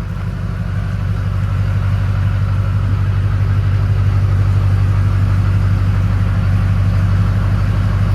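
International Harvester Loadstar truck engine running steadily with a deep, even drone. It gets gradually louder over the first few seconds, then holds.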